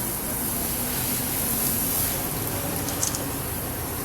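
Steady hiss of water spraying from a hose onto a car, with a low rumble underneath and a short click about three seconds in.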